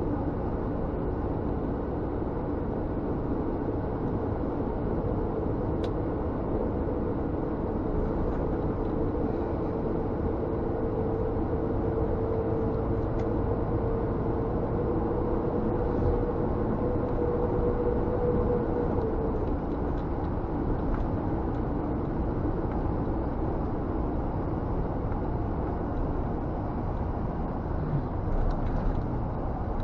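Scania G460 truck's diesel engine and road noise heard from inside the cab while driving, a steady rumble. A steady hum runs through the middle and drops away about two-thirds of the way through.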